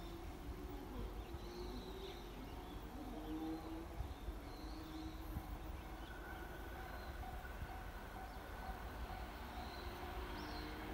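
Faint outdoor ambience at a railway platform: scattered bird calls, with a distant electric train approaching down the line, a faint steady tone coming in about halfway through.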